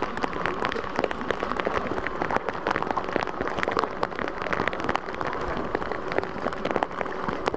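Heavy rain pattering down steadily, a dense, irregular clatter of drops striking hard surfaces.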